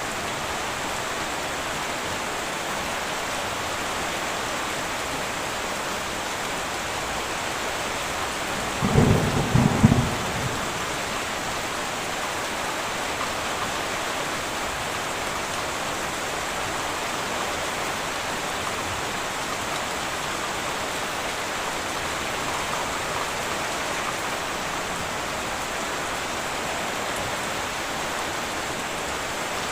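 Heavy rain falling steadily on a metal roof. About a third of the way in comes one short, loud thunderclap, a crackling low burst lasting about a second.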